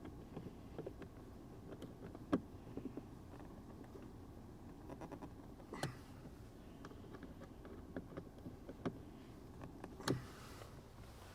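Scattered clicks and knocks of hands and a screwdriver working on the plastic inner door handle trim of a car. The three loudest knocks come about two, six and ten seconds in.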